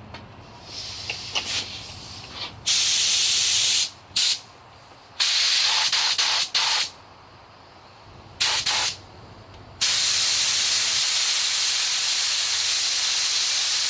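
Air-fed paint spray gun hissing as it sprays white base coat, the trigger pulled in several short passes of one to two seconds, then held for one long pass of about five seconds near the end.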